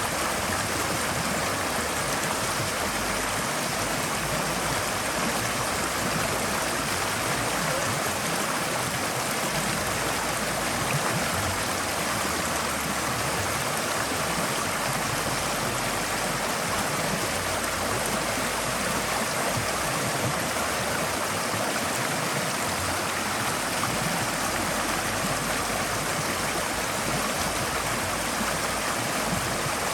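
Forest stream flowing over rocks: a steady rushing and babbling of water.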